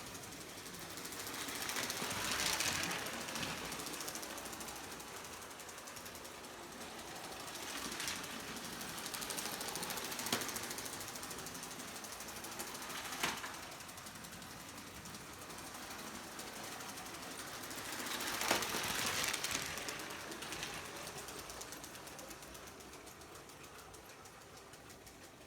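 Lego Emerald Night toy train running on 12 V track, its motor and wheels making a fast steady rattle that swells louder a few times as it passes close. Two sharp clicks come in the middle.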